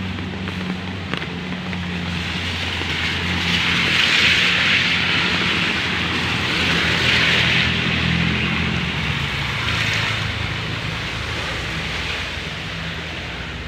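A vehicle's engine running with a steady low hum, under a rushing hiss that swells twice, about four and seven seconds in.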